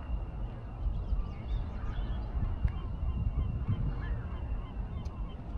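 Geese honking, a few short calls scattered through, over a steady low rumble.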